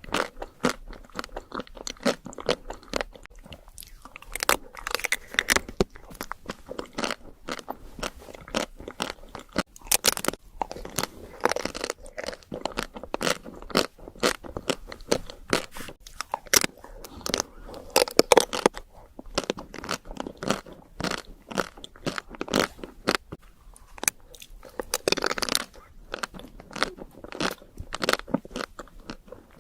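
Close-miked eating: crunchy bites and chewing, a dense run of sharp, irregular crunches and crackles.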